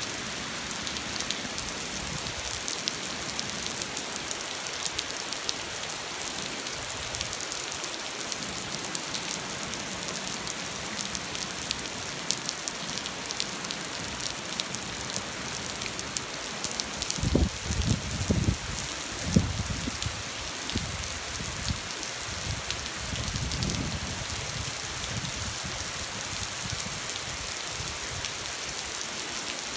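Steady rain pattering on a street, a dense hiss of many small drop ticks. A cluster of low thumps comes a little past the middle, with a softer low rumble a few seconds later.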